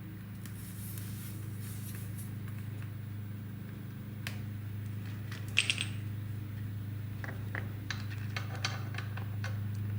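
Small metallic clicks and taps from handling a CO2 tire inflator and its cartridge, with a faint hiss in the first couple of seconds, over a steady low hum.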